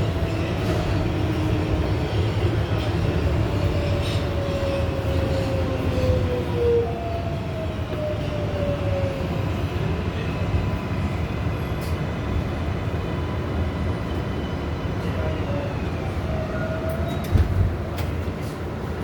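Ride inside an R188 subway car: a steady rumble of wheels on rail, with a motor whine whose pitch glides down and then up again. There are a couple of short knocks near the end.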